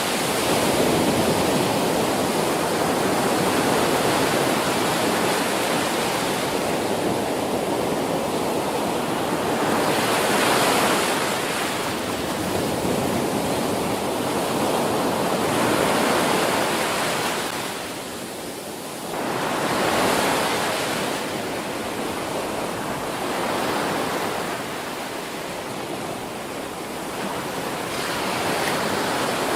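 Ocean waves crashing on a beach: a continuous wash of surf that swells and eases every few seconds, with a brief lull about two-thirds of the way through.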